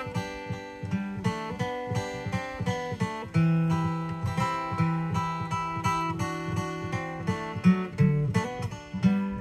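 Acoustic guitar playing an instrumental break in an old gospel tune, with no singing. It is picked and strummed in a steady rhythm, with bass notes falling on the beat.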